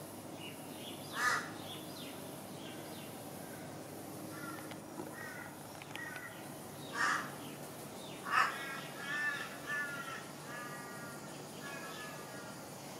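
A bird calling: three loud, harsh caw-like calls, the last two close together, followed by a run of shorter calls near the end.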